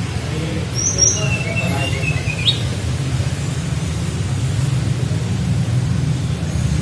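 Small flycatcher singing: a couple of short high notes about a second in, then a thin, slightly falling whistle that ends in a quick upward flick, over a steady low hum.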